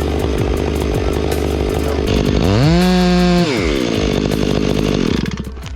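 Chainsaw running, revved up sharply about halfway through, held high for about a second, then let back down; it falls away near the end.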